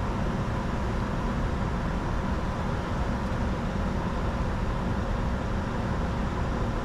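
Steady cockpit noise of a Bombardier Challenger 605 in descent: an even, dense rushing hum with two faint steady whines running through it.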